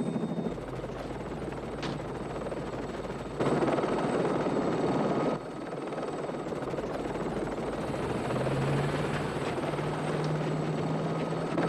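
Helicopter in flight: steady rotor and engine noise, louder for about two seconds near the middle before dropping back suddenly.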